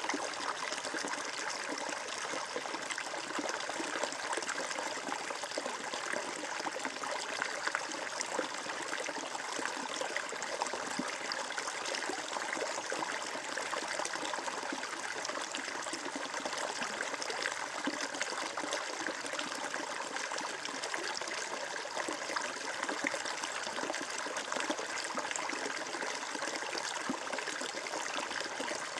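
Water flowing and trickling steadily, a continuous babbling with small splashes and no change throughout.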